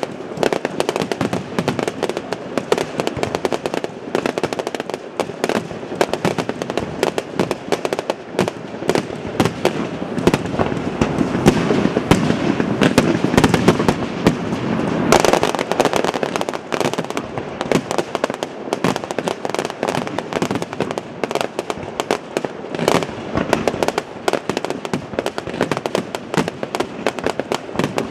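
Aerial fireworks finale: rapid, overlapping bangs and crackling shell bursts, thickening into a near-continuous louder barrage about halfway through, then back to a fast stream of separate bangs.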